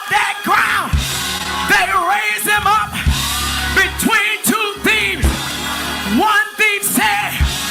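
Church band music: a voice singing in short, sliding phrases over a steady low accompaniment, with heavy low beats about every two seconds.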